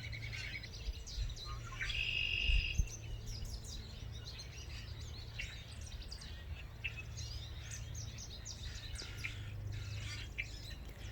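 Several songbirds chirping and calling, with one louder call about two seconds in, over a steady low hum.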